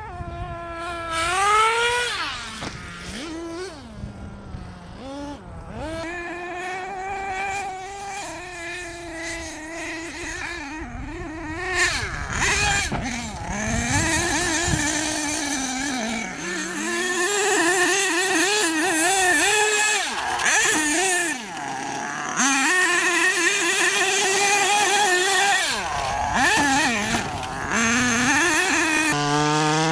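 Small two-stroke engines of radio-controlled monster trucks buzzing at a high pitch, revving up and dropping back again and again as the throttle is worked. They get louder about halfway through.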